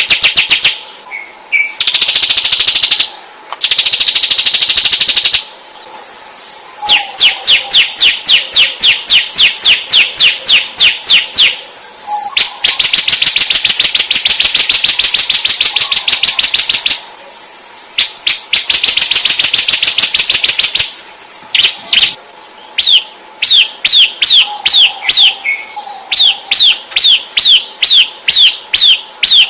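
Murai batu (white-rumped shama) singing a loud, varied masteran song: fast runs of sharp repeated notes and dense buzzing trills, then, about three-quarters of the way in, a string of quick down-slurred whistles at roughly two a second.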